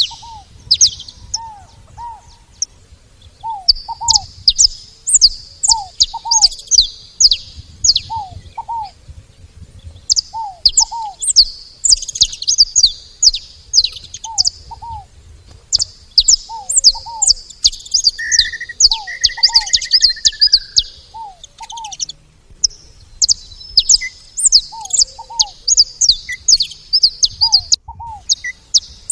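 Saffron finches chirping in rapid, high-pitched bouts lasting several seconds with short pauses between. Under them a lower two-note call repeats steadily about once a second, and a brief falling whistle comes in about two-thirds of the way through.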